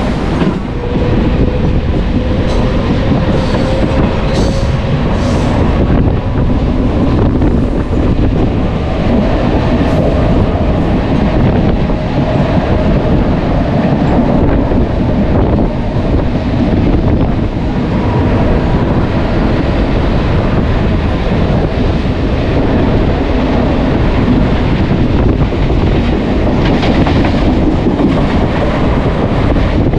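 Mumbai suburban electric local train running at speed, heard from inside the coach: a steady loud rumble of wheels on rails with occasional clatter and a faint steady whine.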